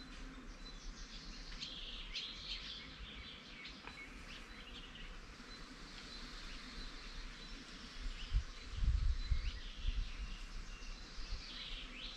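Birds chirping and calling in short scattered bursts. About eight seconds in, a few low rumbling thuds come and go over a couple of seconds, louder than the birdsong.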